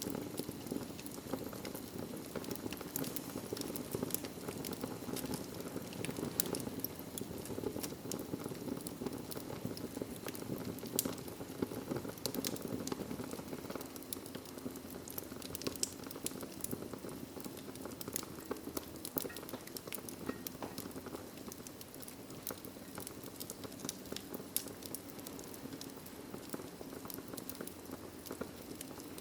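Wood fire crackling: a steady low rush of flames with many scattered sharp pops and snaps.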